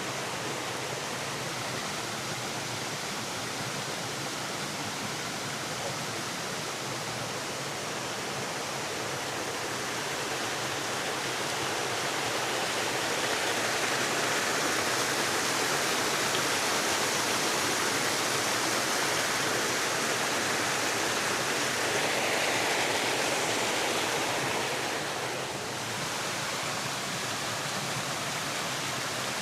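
Waterfall: steady rushing of falling water, growing a little louder through the middle and easing off briefly near the end.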